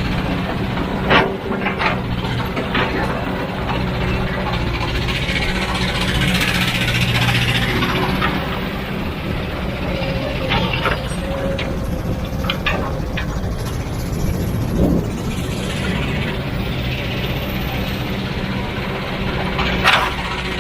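Heavy diesel machine engine running steadily, with a hiss in the middle and short sharp knocks scattered throughout.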